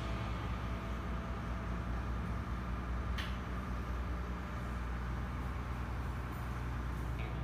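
Boat engine running at a steady drone, with one short click about three seconds in.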